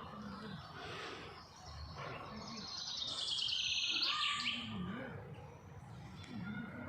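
A songbird singing one fast trill of rapidly repeated high notes that slowly falls in pitch, about two seconds long and ending in a short flourish.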